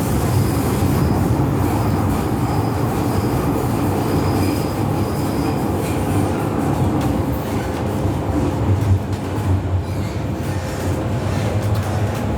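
MTR M-Train electric multiple unit running on the Tsuen Wan Line: a steady rumble of the train under way, with a thin, high squeal from the wheels over roughly the first half.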